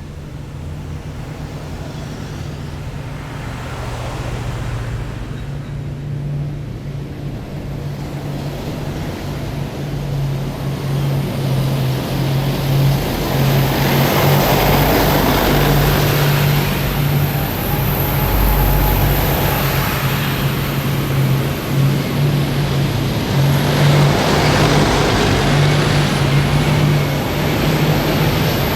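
Heavy military vehicles passing in a column, their diesel engines running with a deep steady note. The sound grows louder over the first dozen seconds and stays loud, with swells of rushing noise as individual vehicles go by.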